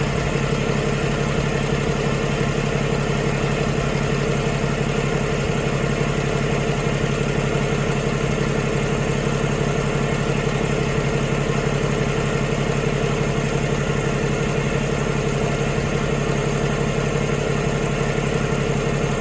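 2014 Cummins ISX15 15-litre inline-six diesel engine idling steadily.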